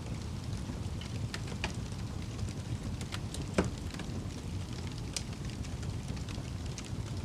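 Wood fire burning in a fireplace: a steady low rumble of the flames with scattered sharp crackles and pops, the loudest pop about halfway through.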